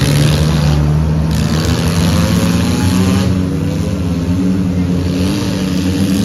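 Several four-cylinder demolition derby cars' engines running and revving together, their pitches rising and falling as they accelerate and back off.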